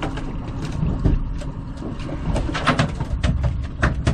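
Boat engine running steadily at trolling speed, with scattered short clicks and knocks over it.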